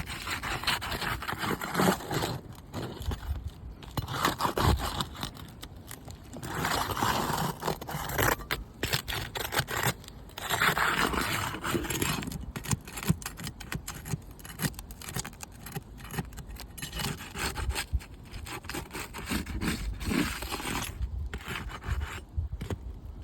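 Asphalt roof shingles being scraped and rubbed in several rough spells of a second or two each, as they are worked loose so that a creased shingle can be removed.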